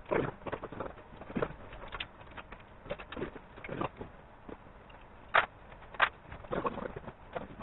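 Irregular clicks and knocks of workshop handling, with two sharp clicks a little over five and six seconds in.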